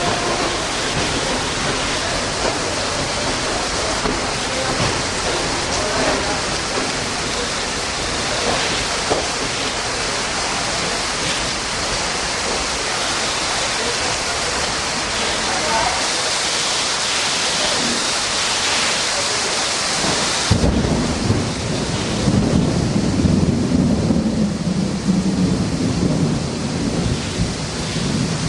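Heavy rain falling steadily. About two-thirds of the way through it changes abruptly to a deeper, louder rumbling noise.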